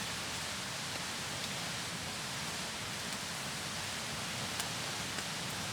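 Steady rain falling, an even hiss, with a couple of faint ticks near the end.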